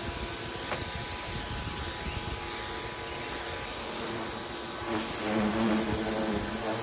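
VEVOR pressure washer running and spraying: a steady motor hum under the hiss of the water jet, the hum growing stronger about five seconds in.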